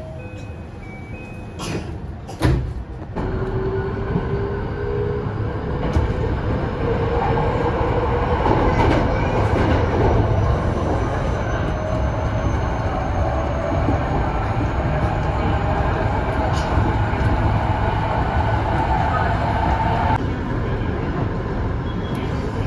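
Electric train pulling away and accelerating: a thump about two and a half seconds in, then a motor whine that rises slowly in pitch over a steady rumble of the wheels. Part of the whine cuts off sharply near the end.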